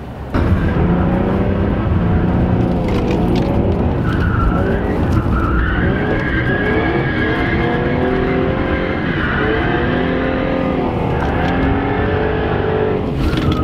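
Car engine revving up and down repeatedly, its pitch rising and falling, with tires spinning and skidding while the car drifts.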